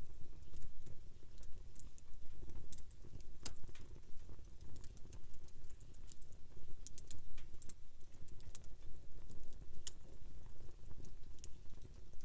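Wood campfire crackling, with irregular sharp pops and snaps over a low steady rumble. One snap stands out as the loudest about a third of the way in.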